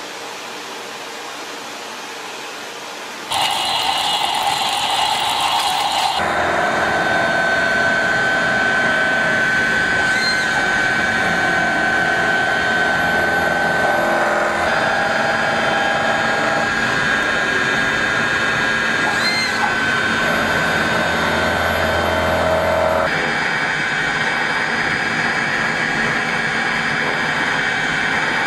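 CNC mill-turn machine cutting metal: a loud, steady machining whine that starts about three seconds in. Its tones shift every few seconds as the cut changes, with a couple of brief chirps.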